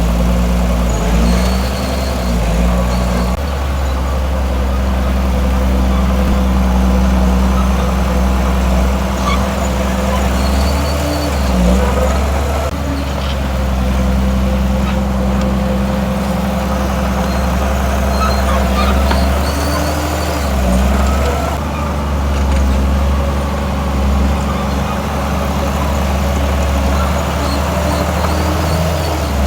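Heavy diesel engine of earthmoving machinery running steadily under work, its pitch dipping briefly a couple of times.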